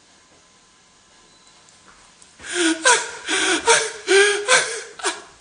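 A man's voice making a quick run of loud, breathy gasps about halfway in, after a couple of quiet seconds.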